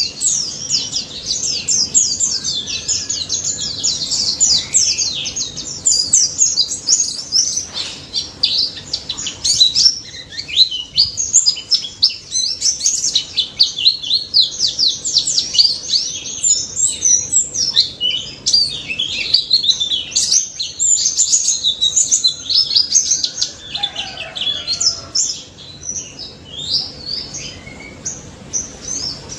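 Pleci (white-eye) singing a long, unbroken run of fast, high-pitched chirps and trills: the continuous 'ngalas' song, full of rapid 'nembak' bursts.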